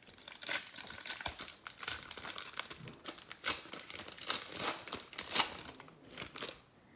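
A foil trading-card pack wrapper from a 2021 Donruss football box being ripped open and crinkled: a continuous run of irregular crackles and small tearing sounds.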